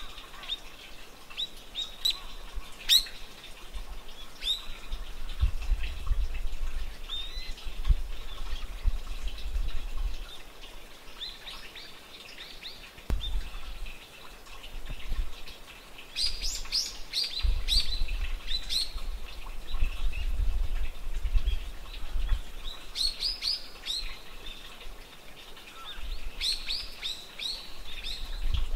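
Birds chirping: clusters of short, high calls come in bursts, with several runs in quick succession in the second half. A low rumble comes and goes underneath.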